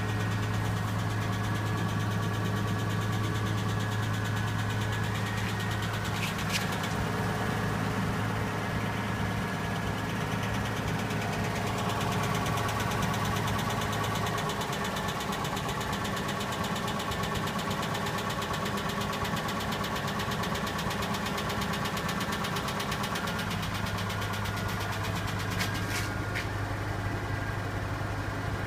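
Nissan RB20E straight-six idling with a fast, steady tapping from its hydraulic lifters, which are knocking while the engine is cold after a start in sub-zero weather.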